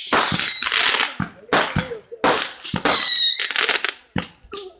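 Fireworks going off: a rapid run of sharp bangs and crackles, with a high whistle near the start and again about three seconds in.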